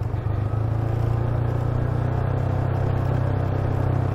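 Motorcycle engine running steadily under way, a low even hum with road and wind noise over it.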